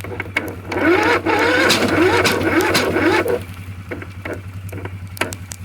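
Electric starter cranking the derelict Husqvarna's cold engine for a couple of seconds with a wavering whir, without it firing, then stopping. The owner suspects it lacks the power to turn the engine over. A steady low hum runs underneath, with scattered clicks.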